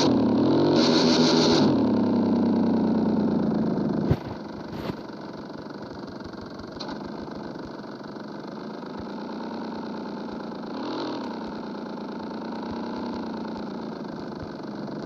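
A 160 cc single-cylinder motorcycle engine running through a bare, unmuffled exhaust pipe. It revs up and falls back at the start, gives two sharp pops about four and five seconds in, then settles into a steady idle with a light blip of the throttle near the end.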